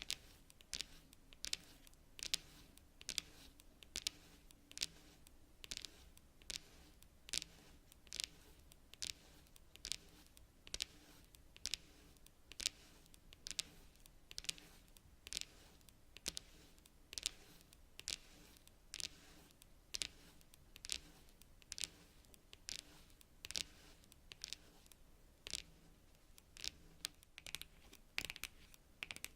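Long natural fingernails tapping on cards: sharp, crisp clicks at about two a second, unevenly spaced and varying in strength.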